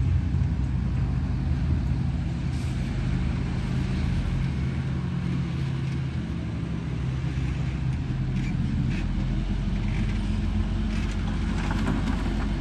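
A motor running steadily with a low hum that shifts slightly in pitch, with a few faint clicks near the end.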